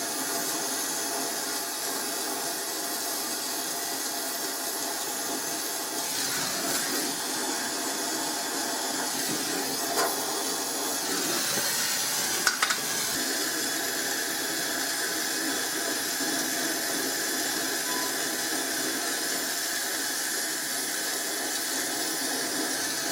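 Steady mechanical running noise with a hiss, unchanging throughout, with a couple of short clicks about ten and twelve seconds in.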